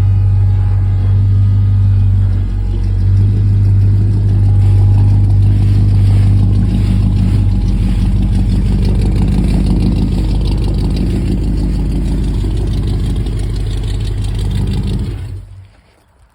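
Ford 460 big-block V8 of a 1973 F250 idling steadily through glass-pack mufflers, a deep even exhaust note that cuts off abruptly about fifteen seconds in.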